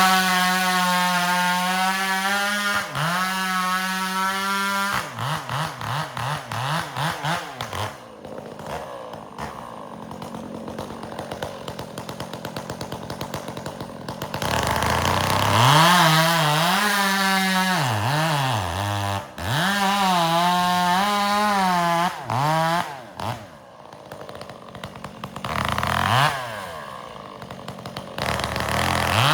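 Two-stroke chainsaw bucking firewood: it runs at full throttle, drops back to idle for several seconds in the middle, then revs up again, its pitch sagging and recovering repeatedly as the chain works through the wood.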